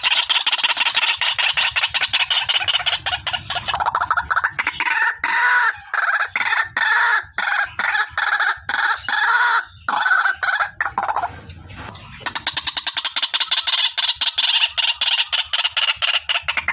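Female white-breasted waterhen (ruak-ruak) calling, a lure recording: a fast run of rapid clucking notes that slows into louder, more widely spaced notes midway, breaks off briefly, then picks up the rapid run again.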